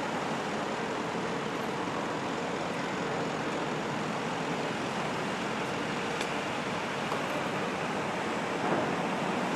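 Steady vehicle and traffic noise on a city street: engines running with an even rush and no siren or horn.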